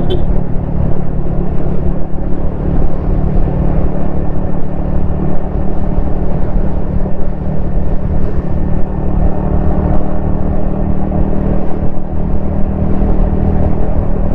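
Yamaha XSR155's single-cylinder engine running at a steady cruise, its note holding level without revving, over a low rumble of riding.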